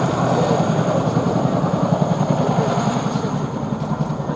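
RAF Boeing Chinook HC.2/4 tandem-rotor helicopter flying its display, the rapid beat of its two rotors pulsing steadily and easing slightly near the end.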